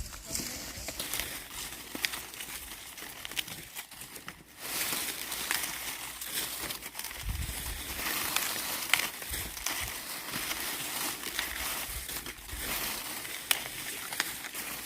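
Dry corn plants rustling and crackling as ears of corn are picked by hand, a dense crinkle of brittle leaves and husks full of small snaps, louder from about five seconds in.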